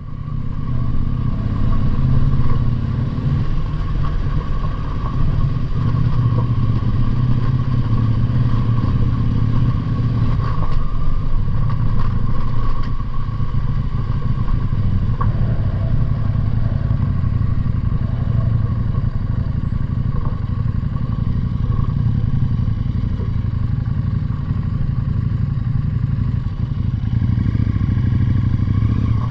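Motorcycle engine running steadily with a continuous low drone.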